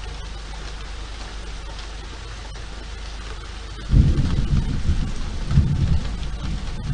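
Steady rain hissing, then about four seconds in a loud, low rumble of thunder breaks in and goes on in uneven swells.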